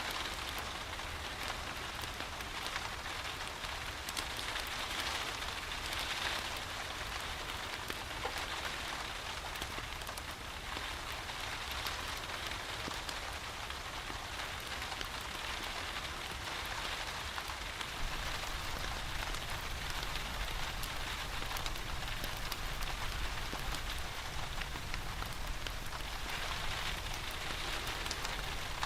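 Steady rain with fine pattering drops and a low rumble underneath, the rumble growing slightly stronger about two-thirds of the way through.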